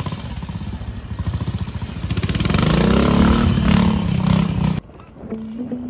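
Vintage trials motorcycle engine pulsing at low revs, then revving up louder for about two seconds as the bike climbs through a rocky section. It cuts off abruptly near the end, and a quieter, steadier engine note takes over.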